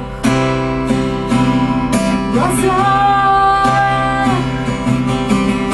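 Acoustic guitar strummed in a steady rhythm as song accompaniment, with a held sung note in the middle.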